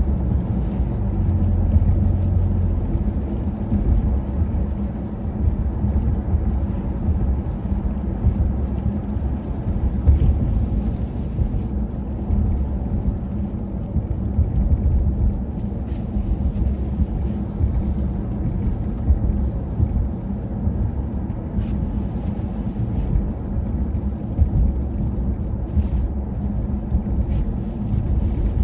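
Steady low rumble of wind buffeting the microphone, with a few faint ticks scattered through it.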